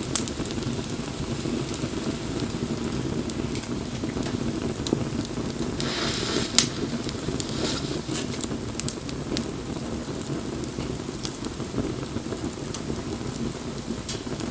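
Wood bonfire burning with a steady low rush of flame and scattered crackles and pops. A brief hiss comes about six seconds in, followed by a sharper, louder pop.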